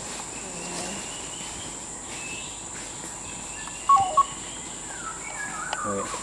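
Tropical rainforest insects keeping up a steady high-pitched drone. Two short, sharp chirp-like calls come about four seconds in, and a few falling whistled calls follow near the end.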